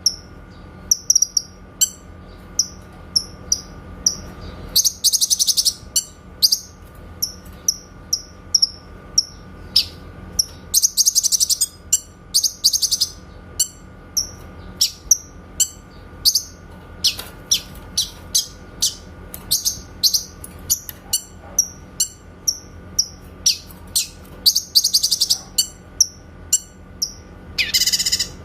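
Cucak kinoy songbird calling in its 'tembakan' style: a long run of short, sharp, high notes, roughly two a second, broken by several rapid trills lasting about a second each. A faint steady hum runs underneath.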